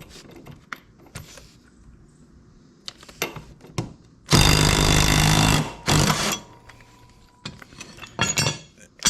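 An impact wrench hammering for about a second and a half, then a short second burst, as it loosens a lawn mower blade bolt. Light clinks of metal tools come before it.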